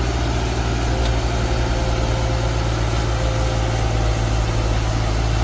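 Tractor engine running steadily: a deep, even drone that does not rise or fall.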